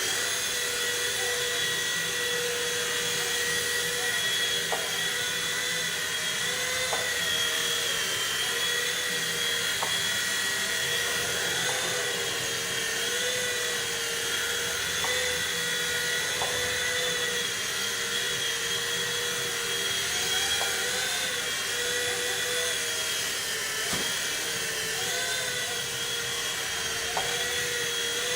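V911 micro RC helicopter's small electric motors and rotor whining steadily, the pitch wavering slightly up and down, with a few faint ticks.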